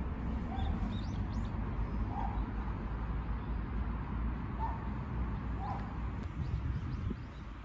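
Wind rumbling on the microphone, with about four short, faint animal calls spread through it and a few quick high chirps near the start.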